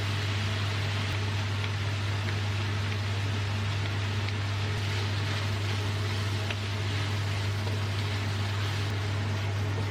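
A machine running steadily: a strong low electric hum under an even rushing hiss, with a few faint ticks.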